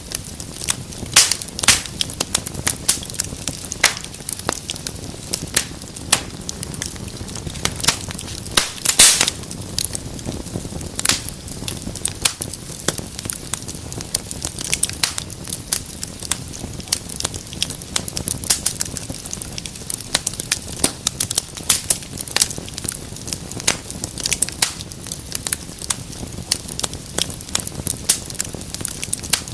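Wood fire in a fireplace crackling: irregular sharp pops and snaps, several a second, over a steady low hiss of burning, with a handful of louder pops.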